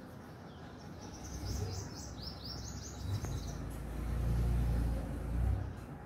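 A small bird chirping a quick run of high notes, starting about a second in and lasting about two seconds. A low rumble swells in the second half and is the loudest sound.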